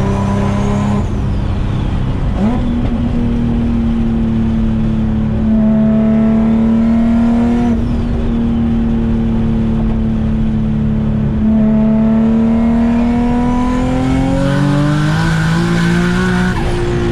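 Big-turbo Infiniti G35's V6 engine running hard at speed, its pitch holding or climbing slowly and changing in steps several times, with a faint high whine rising and falling above it.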